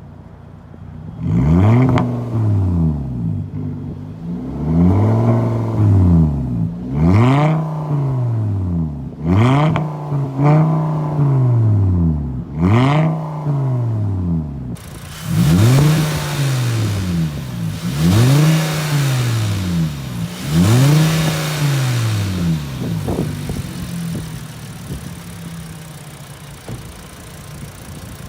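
Straight-piped Volkswagen Mk6 2.5-litre inline-five revving: about ten quick throttle blips roughly two seconds apart, each rising and falling in pitch, then settling back to idle near the end. A steady hiss joins about halfway through.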